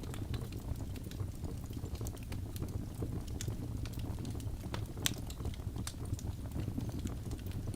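Birch logs burning in a fireplace: the fire crackles with frequent small sharp pops over a steady low rush of flame, with one louder pop about five seconds in.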